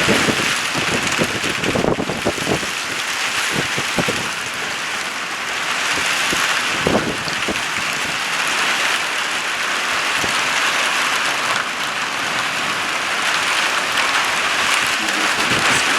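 Heavy rain pouring down in a steady hiss, with individual drops knocking close by every so often.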